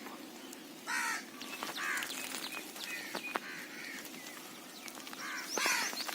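Crows cawing, several harsh caws spread over a few seconds, with a quick run of short high chirps from a smaller bird near the end.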